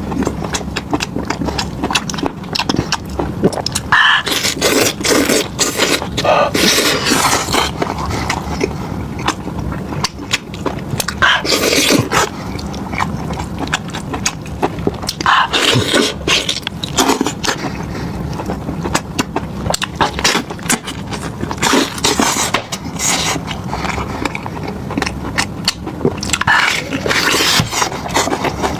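Close-miked eating sounds: chewing and biting into meat, an unbroken run of sharp clicks and short noisy bursts.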